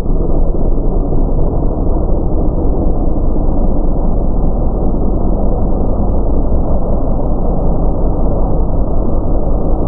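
Loud, muffled vehicle noise of a drag-race pass, a dense low rumble with the treble cut off by low-fidelity recording.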